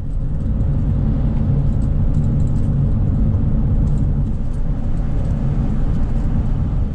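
Low, steady rumble of road and engine noise from a vehicle driving on the highway. It grows louder at the start and drops away near the end.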